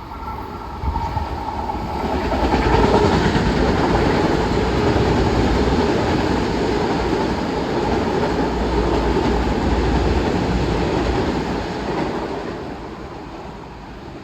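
Long Island Rail Road train running past on the tracks, its rumble swelling in over the first couple of seconds, holding steady, then fading away after about 12 seconds.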